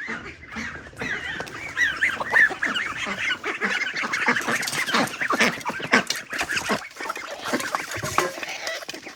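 A flock of farmyard poultry calling over one another: a dense, continuous run of many short, overlapping calls.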